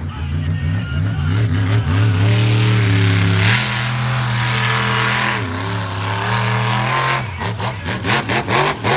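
Monster truck engine at full throttle: it revs up, holds high and steady for a few seconds, dips and comes back up, then drops off into a series of quick throttle blips near the end.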